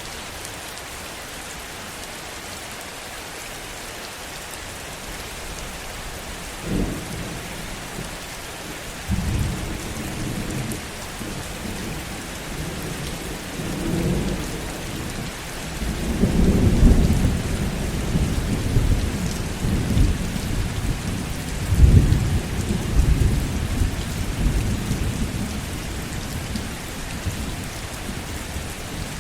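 Heavy rain falling steadily, with thunder rolling in from about a quarter of the way through. The thunder comes in several low rumbling swells, loudest about three-quarters of the way in, then eases off near the end.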